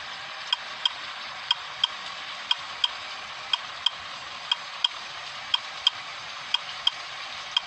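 A vehicle's indicator flasher clicking steadily in pairs, on and off, about once a second, over a steady hiss.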